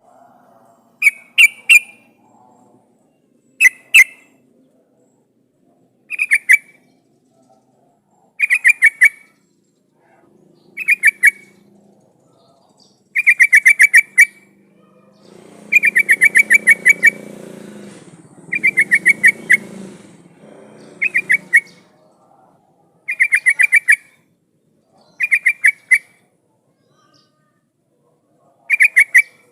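Yellow-vented bulbul (trucukan) calling in a lively, full-voiced way: short, quick bubbly phrases of several rapid notes, repeated every two seconds or so. This is the kind of call bird keepers play as a lure to set a captive bulbul answering.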